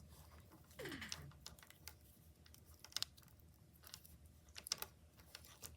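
Faint clicks and rustles of plastic lacing cord and pony beads being handled as a knot is tied and pulled tight, with a short falling squeak about a second in.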